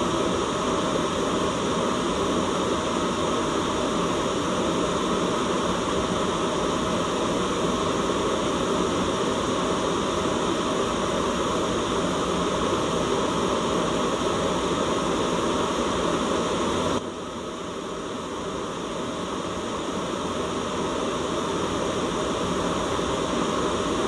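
Steady white noise, an even hiss. About two-thirds of the way through it suddenly drops in level, then slowly swells back up over several seconds.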